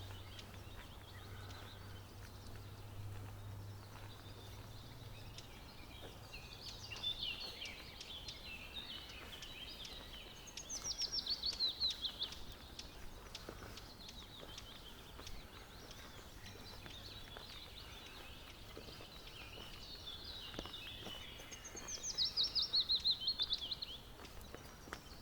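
Forest songbirds calling, with one bird twice singing a loud, fast run of notes that falls in pitch, about two seconds each time, over softer chattering calls from other birds and a steady background hiss.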